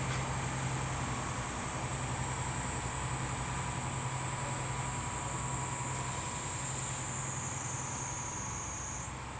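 Small harbour ferry's engine running steadily, a constant low hum, under a continuous high-pitched shrill. The shrill dips in pitch late on and jumps back up near the end.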